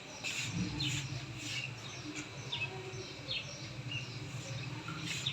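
Birds chirping with short, scattered calls, over a steady low hum that starts about half a second in.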